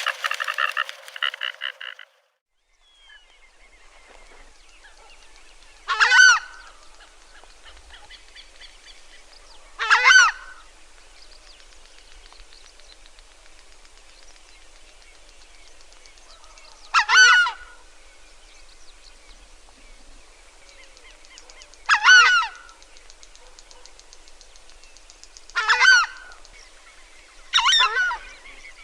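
A large bird calling six times, each call short and a few seconds apart. At the very start a different loud sound cuts off about two seconds in, followed by a moment of silence.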